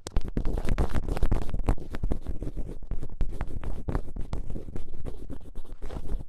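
Thin ear pick scraping and scratching in an ear, close to the microphone: dense quick scratches and clicks over a low rumble, stopping abruptly at the very end.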